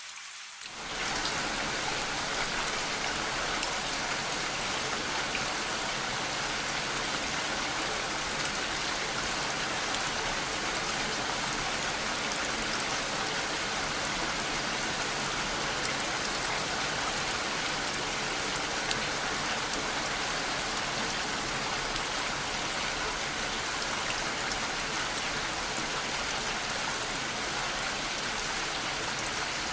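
Steady, even rain. It is briefly thinner near the start, then rises about a second in to a fuller level that holds constant.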